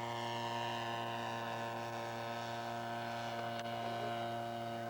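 Steady electrical mains hum in the recording, an even buzz that holds one pitch with no change in level or tone.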